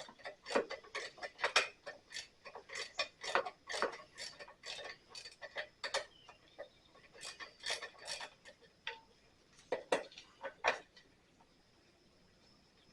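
Ratchet wrench with a 5/16-inch socket clicking in quick irregular runs while loosening bolts. The clicks thin out after about six seconds and stop shortly before the end.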